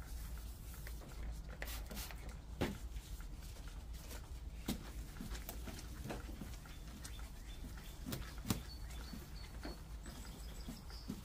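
Quiet hand wet-sanding of a plastic headlight lens with a 2000-grit pad on a sanding block, with irregular soft clicks and knocks from the pad and lens.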